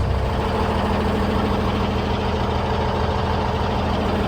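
A vehicle's engine running steadily with road noise while driving.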